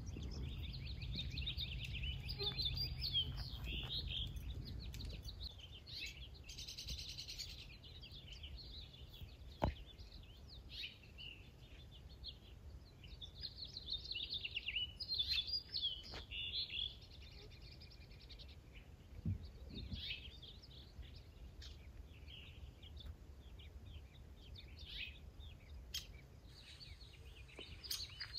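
Birds chirping and singing at intervals, short calls and quick trills coming in clusters with pauses between. A low rumble sits under them for the first few seconds.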